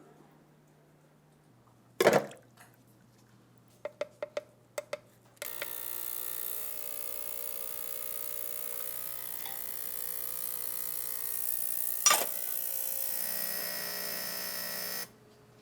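A sharp metal click, then a quick run of lighter clicks. Then a small electric motor tool starts and runs steadily for about ten seconds with a high hiss, a sharp click sounding near the end, before it cuts off suddenly.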